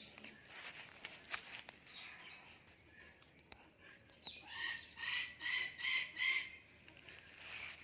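Indian ringneck parrot calling: a run of about five short, harsh pitched calls, about two a second, starting about halfway through, preceded by light rustling and a sharp click.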